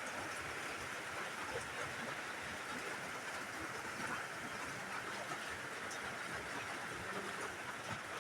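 Steady hissing background noise, with pigeons cooing faintly from about five seconds in.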